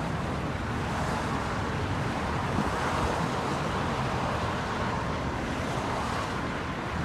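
Steady roar of freeway traffic passing, an even rushing noise with no single vehicle standing out.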